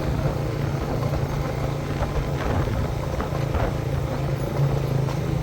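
A steady low engine-like hum with background noise, unchanging in level.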